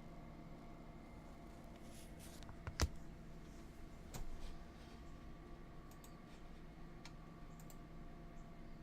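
A few light clicks and taps over a quiet room with a low steady hum; the sharpest click comes about three seconds in, with softer ticks later.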